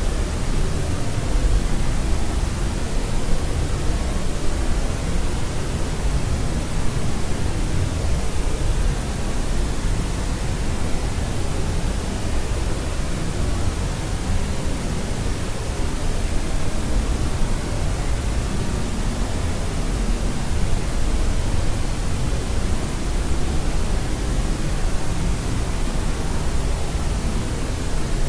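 Steady generated white noise: a constant, even rushing hiss with no changes, fuller in the bass than in the treble.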